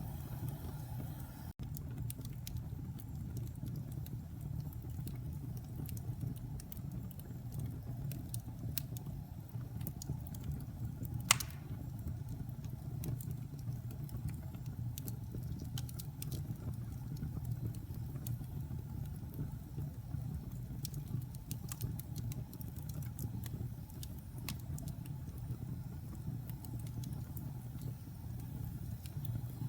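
Wood fire burning in a fireplace: a steady low rumble with scattered small crackles and one sharp pop about eleven seconds in.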